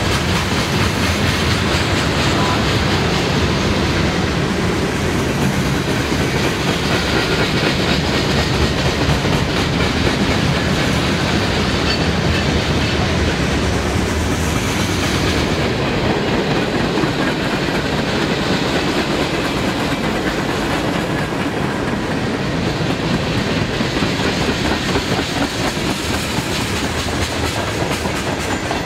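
Freight train cars rolling past at speed: a steady rumble of steel wheels on rail with clickety-clack over the rail joints, as coil steel cars, tank cars, boxcars and a gondola go by.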